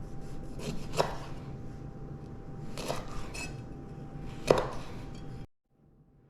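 Kitchen utensil scraping and rubbing, with three sharp knocks about two seconds apart, the last the loudest. It cuts off suddenly about a second before the end.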